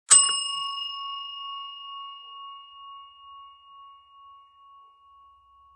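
A single bell-like chime struck once, ringing a clear high tone that fades slowly over several seconds with a gentle pulsing wobble.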